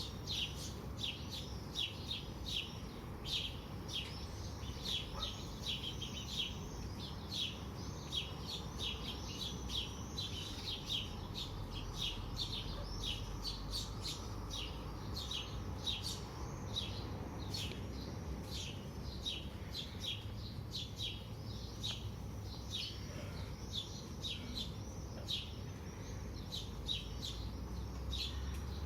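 Birds chirping steadily, a dense run of short, high chirps several times a second, over a low steady background hum.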